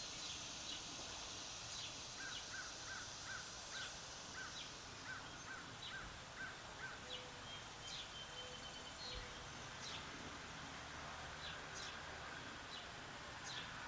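Birds calling outdoors over a faint steady hiss: a run of about a dozen short, evenly repeated notes, two to three a second, in the first half, with scattered brief high chirps throughout.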